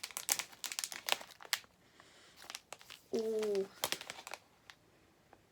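A packet of bath salts being torn open and crinkled, with a quick run of crackles through the first second and a half, then a few faint rustles further on.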